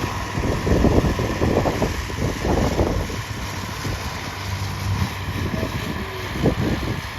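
Wind buffeting the microphone in uneven gusts, over the steady drone of a light propeller aircraft's piston engine.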